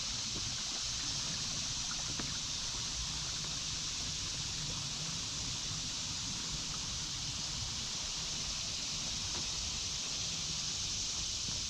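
A steady high-pitched drone of cicadas (locusts) in the trees over the low rush of a creek, with a few faint ticks.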